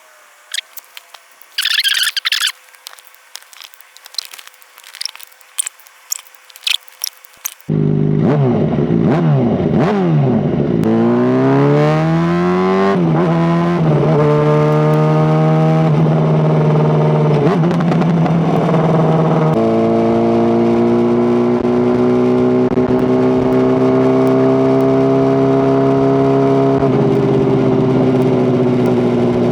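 Clicks and a short tearing rustle of a microphone being taped onto the motorcycle. About eight seconds in, the Honda CBR600RR's inline-four engine comes in loud and pulls through the gears: the pitch climbs, drops at an upshift, climbs again, drops at a second upshift, then holds almost steady.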